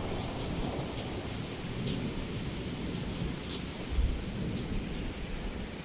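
Heavy rain falling steadily against a window, with a low rumble of thunder throughout and scattered sharp drop ticks. About four seconds in comes a short, deep thunder thud, the loudest moment.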